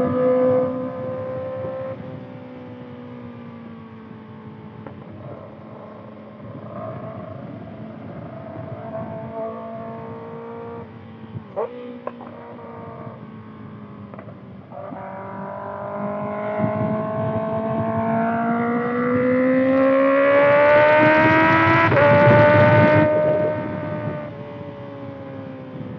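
2025 Kawasaki ZX-6R's inline-four through a Voodoo Racing slip-on exhaust, under way. It runs at moderate revs for the first half, then builds in pitch and loudness from about halfway as the throttle is opened. The revs drop away after the peak near the end.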